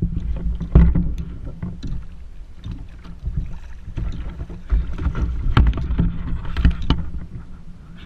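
Knocks and bumps on a kayak, with a steady low rumble of wind and water underneath. The sharpest knocks come about a second in and twice near the end.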